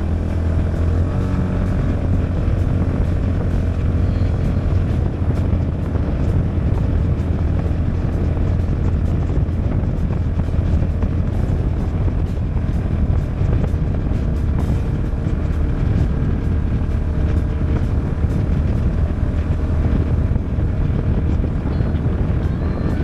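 Polaris Ranger 570 side-by-side's single-cylinder engine running steadily under way, a constant low drone as it drives through snow.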